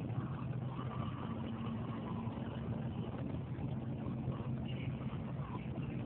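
Steady low hum of an idling engine, with no thunder heard.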